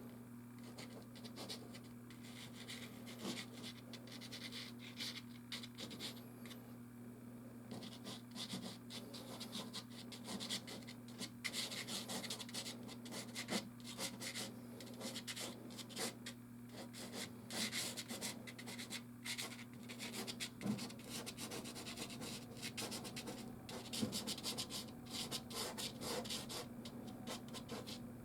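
Soft pastel rubbing and scratching across canvas in many short, irregular strokes, over a low steady hum.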